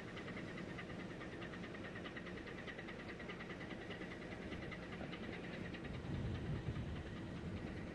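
Steady low rumble and hum of a ship's engine at sea, with a fast-pulsing buzz over it that fades out about five seconds in. A louder low rumble swells briefly about six seconds in.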